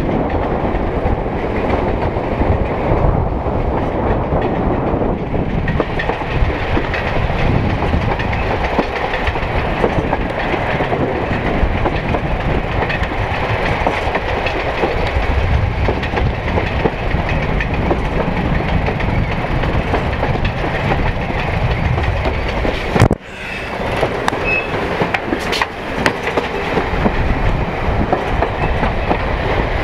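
Derby-built Class 108 diesel railcar running along the line, heard from an open carriage window: a steady rumble of wheels on the rails with some clickety-clack. About three quarters of the way through, the sound drops out for a moment.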